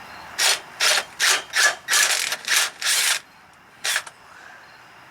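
Hand ratchet wrench worked in quick back-and-forth strokes, about eight rasping clicks in a row, then one more about a second later.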